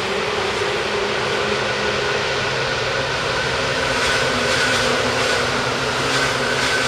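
Two Seibu Ikebukuro Line electric trains, a yellow commuter train and a Seibu 10000 series Red Arrow limited express, crossing a steel railway bridge as they pass each other: a steady, loud rumble, with a run of rhythmic wheel clacks from about four seconds in as the Red Arrow crosses.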